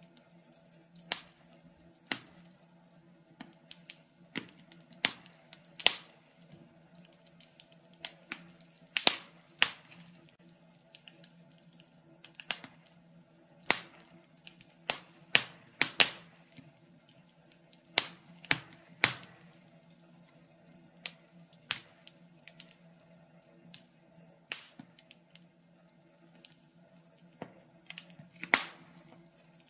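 Wood fire crackling in a fireplace: irregular sharp pops and snaps, one or two a second, some much louder than others, over a faint steady low hum.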